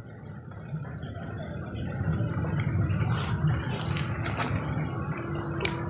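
Steady rain falling on a pond, growing louder over the first two seconds, with a run of five quick high chirps about a second and a half in.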